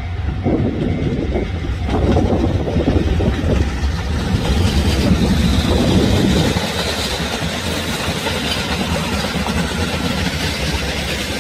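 Train running on the rails: a dense, uneven rumble and rattle, loudest for the first six seconds or so, then easing into a steadier running noise.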